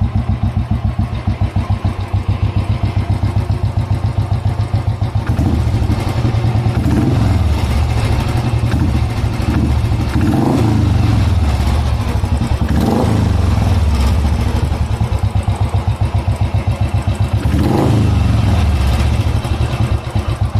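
Royal Enfield Classic 350's single-cylinder engine through a SANS Bottleneck aftermarket exhaust: a bassy, even thumping at idle, then several throttle blips from about five seconds in, dropping back to idle near the end.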